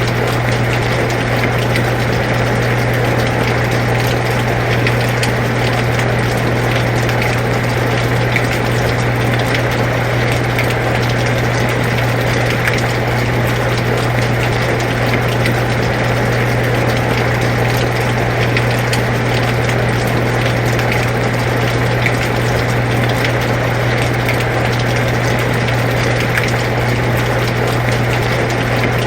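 Air conditioner running with a steady low hum, mixed with rain falling: an even hiss with scattered drop ticks.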